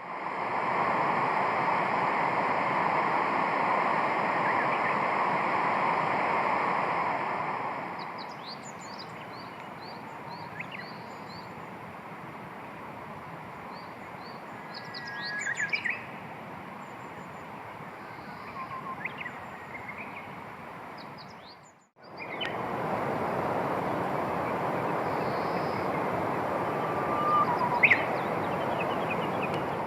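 Small birds chirping with short, high, rapid notes over a steady rushing background noise. The background is louder in the first part and again after an abrupt break about three-quarters of the way through.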